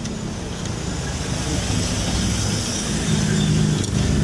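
A motor vehicle's engine running with a steady low hum, growing louder about three seconds in.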